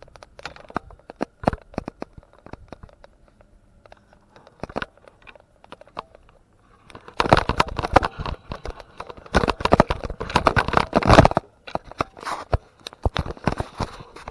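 Crackling and rustling with many sharp clicks, sparse at first, then dense and loud for about four seconds past the middle, then sparse again.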